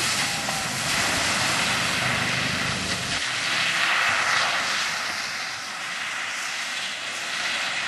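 Nissan 350Z's V6 engine running under a steady broad hiss. The engine's low rumble drops away about three seconds in, leaving mostly the hiss.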